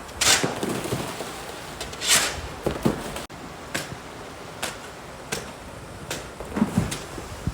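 Footsteps crunching on snow, an irregular run of steps, the loudest two in the first couple of seconds.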